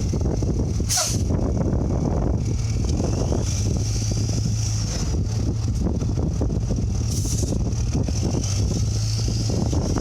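2004 Ford F-650 flatbed truck's diesel engine idling steadily, with two brief rushes of noise, about a second in and about seven seconds in.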